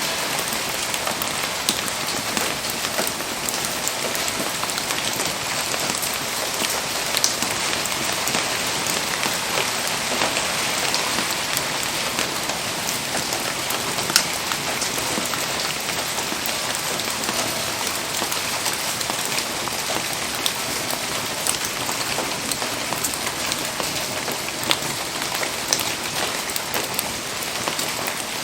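Steady rain falling, an even hiss of drops with a few scattered sharp ticks.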